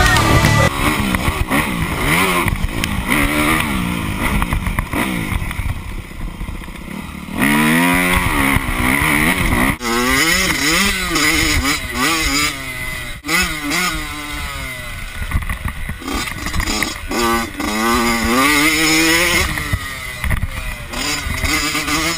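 Motocross dirt bike engine being ridden hard, its pitch climbing and dropping again and again with throttle and gear changes.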